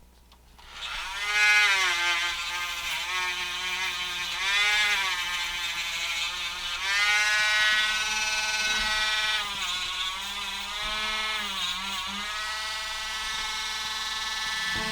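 Small high-speed rotary tool starting up about a second in and running with a high whine, its pitch dipping again and again as it is pressed into the work and recovering as it is eased off.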